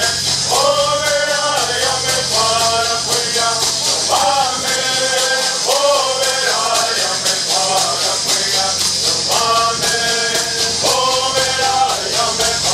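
Southern California Native American bird song: a group of men singing in unison in short repeated phrases, over a fast, steady shaking of gourd rattles.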